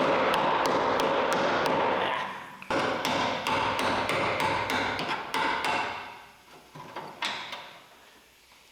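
Impact wrench hammering on a stubborn cab-mount bolt in two long rattling bursts, with a short pause between them, then a brief weaker burst near the end.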